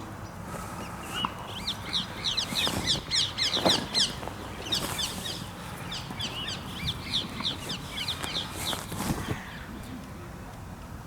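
A bird giving a fast run of short, high chirping notes, several a second, starting about a second in and stopping shortly before the end, with short breaks.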